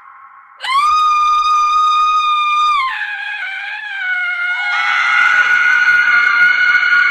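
A woman screaming: a loud, high scream starts suddenly about half a second in and holds one pitch for about two seconds, then drops lower and wavers downward. A second, higher scream comes in near the end and carries on.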